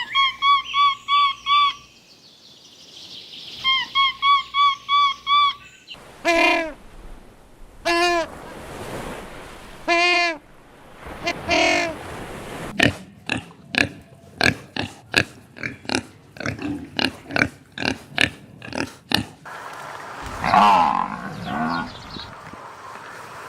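A run of different animal calls. First come two bursts of rapid, high chirps. Then there are several pitched calls about two seconds apart, then a fast series of sharp clicks, and a rougher call near the end.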